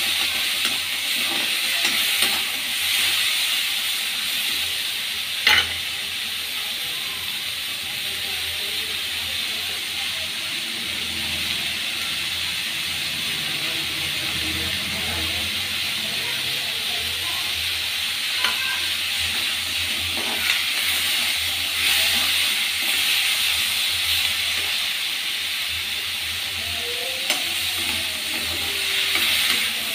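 Onions and tomatoes sizzling steadily in oil in a kadai, with a metal slotted spatula scraping the pan as they are stirred near the start and again near the end. A single sharp knock about five seconds in.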